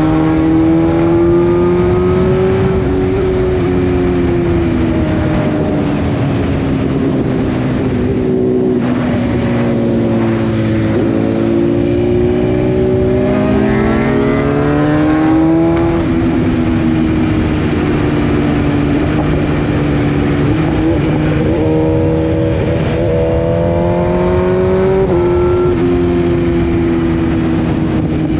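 Motorcycle engine running steadily under way, its pitch sinking and climbing with the throttle, and rising clearly about halfway through as it accelerates.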